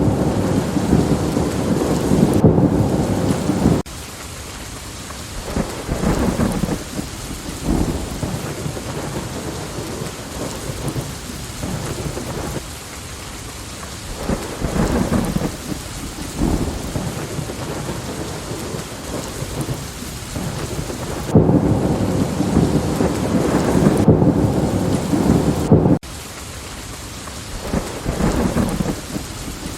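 Steady rain with thunder. A heavy rumble stops suddenly about 4 seconds in, shorter rumbles come and go through the middle, and a second heavy rumble starts about 21 seconds in and cuts off sharply about 26 seconds in.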